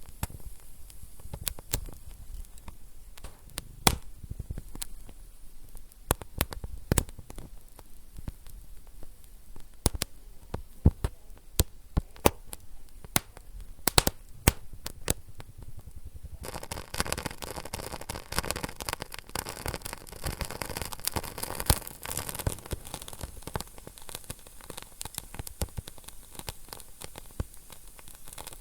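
Wood fire crackling in a fireplace, with frequent irregular sharp pops and snaps. A bit over halfway through, a steady hiss comes up under the crackles for several seconds, then dies away.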